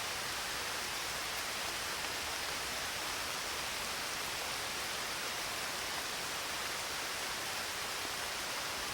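Steady rain falling, an even hiss with no distinct drops or changes.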